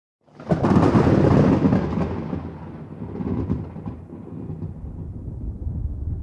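Thunderclap starting abruptly out of silence about a third of a second in, a loud crack that rolls into low rumbling thunder, which swells again briefly about three seconds in.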